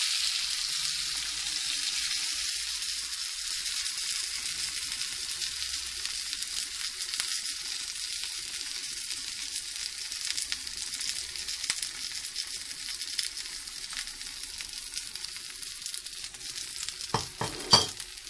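Egg omelette with mushrooms, tomatoes and sweet pepper frying in a pan: a steady sizzling hiss with scattered small crackles, easing slightly as it cooks. A few sharp knocks near the end.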